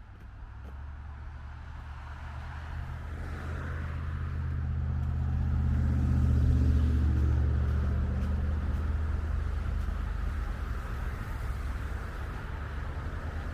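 A motor vehicle passing close by on the street: a low engine rumble swells to its loudest about halfway through, then slowly fades.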